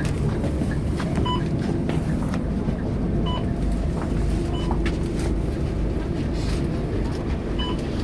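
Scania K230UB bus's diesel engine running steadily with a low rumble, with a short two-tone electronic beep sounding four times over it.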